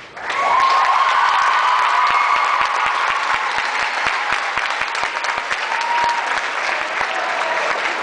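Audience applause and cheering breaking out suddenly as a dance performance ends, dense clapping with high whoops rising above it.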